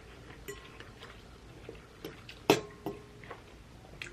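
A few light clinks of tableware, such as a utensil or glass tapped against a dish. The loudest comes about two and a half seconds in, with a second a moment later, each ringing briefly.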